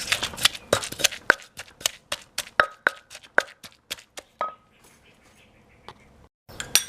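Pestle knocking and working in a mortar to mix lime juice into the pounded garlic, chili, dried shrimp and palm sugar for som tum: quick irregular knocks, about three to four a second, some ringing briefly. They die away about four and a half seconds in, with a couple more knocks near the end.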